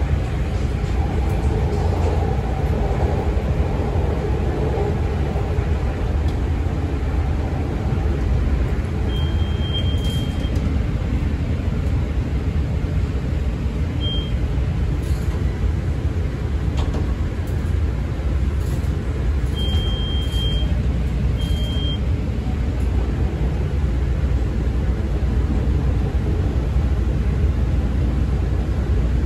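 CTA 5000-series rapid transit car running along the track: a steady low rumble of wheels and traction motors. Several short, thin high-pitched beeps come through around the middle.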